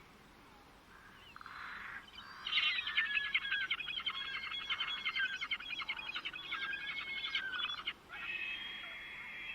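Songbird singing: after a quiet start, a long, rapid run of chattering notes begins about two seconds in and lasts about five seconds. A shorter phrase with a held whistle follows near the end.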